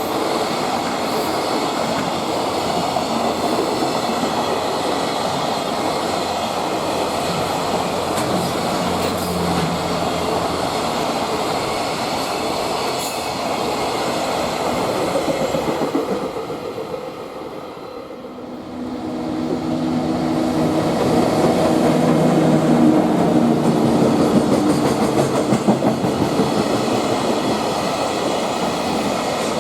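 Freight trains passing close by, their wagons rolling over the rail joints with a clickety-clack. About seventeen seconds in the noise briefly dips, then a second freight train passes, louder, with a steady electric hum over the rolling wheels.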